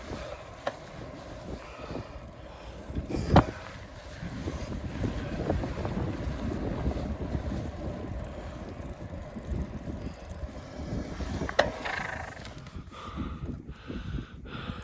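Wind buffeting the microphone while riding a bicycle, an uneven rumble, with a sharp knock a little over three seconds in and another at about eleven and a half seconds.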